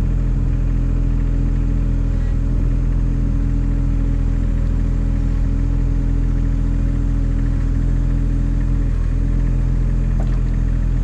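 Engine of the farm machine that pushes fence posts into the ground, running steadily at an even, low speed while it presses a post down.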